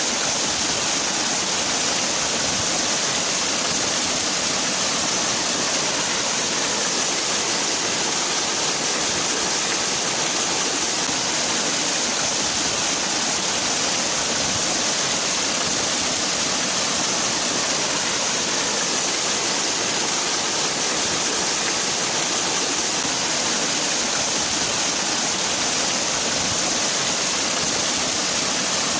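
Waterfall: water falling and splashing in a steady, unbroken hiss-like rush, even in level throughout.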